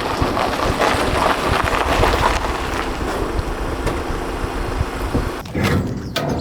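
Steady vehicle running noise with wind buffeting the microphone.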